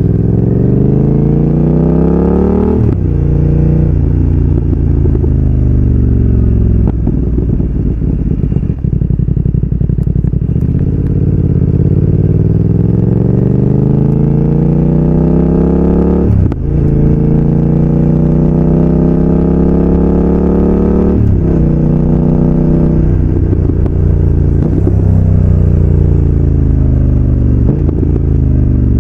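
BMW F900R's parallel-twin engine running loud through an aftermarket slip-on exhaust. The pitch climbs steadily and drops sharply several times: about three seconds in, past the middle and again a few seconds later.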